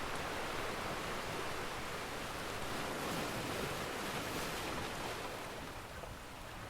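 Ocean surf washing in, swelling in the middle and easing off near the end, with a faint crackle of a wood fire near the start.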